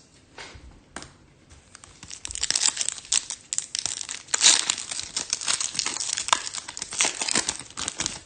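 Trading card pack wrapper being torn open and crinkled, a dense crackling that starts about two seconds in, after a few light clicks and rustles.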